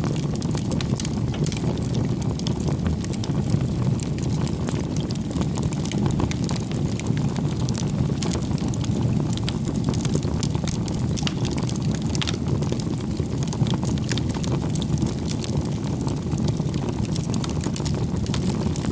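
Wood fire burning, with a steady low rushing sound and frequent small irregular crackles and pops of burning wood.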